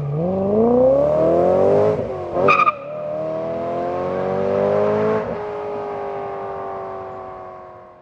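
BMW 3 Series sedan accelerating hard away, its engine pitch climbing through a gear, breaking with a short high chirp about two and a half seconds in, climbing again to a second gear change about five seconds in. It then fades as the car pulls into the distance.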